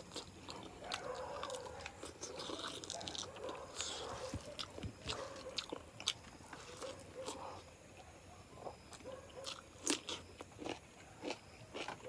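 Close-up mouth sounds of eating chicken curry and rice by hand: wet chewing with many short smacks and clicks, the loudest about ten seconds in.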